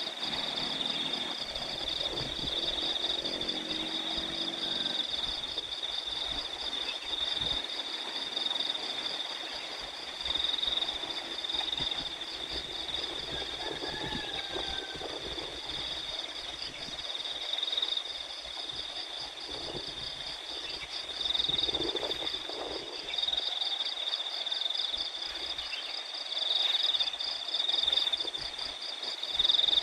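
Steady high, pulsing chirr of a cricket chorus, with wind rumbling on the microphone and a few short animal calls breaking in now and then.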